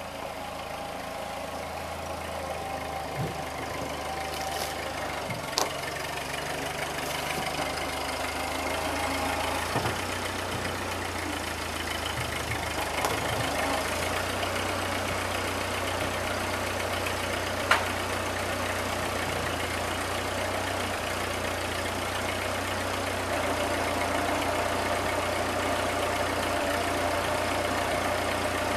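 Ford 9N tractor's four-cylinder flathead engine idling steadily, with a few sharp clicks; it grows a little louder near the end.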